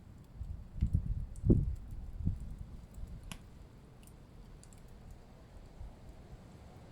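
Wood fire crackling in a fireplace: a few low, muffled pops in the first couple of seconds, a sharp crack about three seconds in, then fainter scattered ticks of burning wood.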